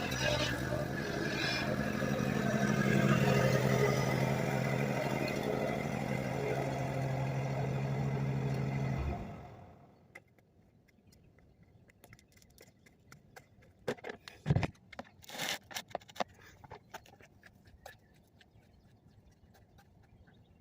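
Small lawn mower engine running steadily, then shut off about nine seconds in, spinning down over a second. Scattered clicks and a few knocks follow.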